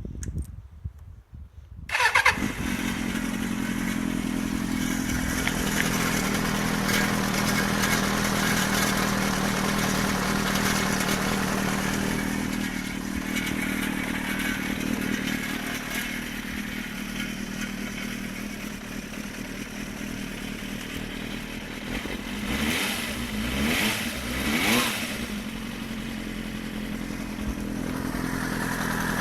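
Suzuki GSX-R400 (GK73A) inline-four engine starting about two seconds in and idling with a rattle from the engine, the pitch rising and falling briefly a few times near the end as the throttle is blipped. The rattle, heard with the bike on its side stand, persists after a new cam chain tensioner was fitted.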